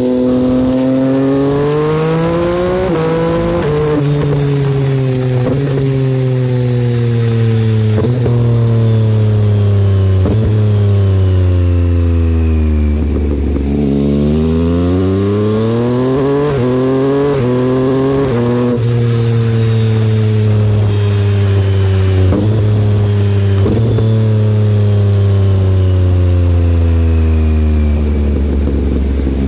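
2022 Yamaha XSR900's inline three-cylinder engine through an aftermarket Kelpi exhaust, heard on the move: the engine note rises and falls through several gear changes, drops to a low pitch around the middle, then climbs again.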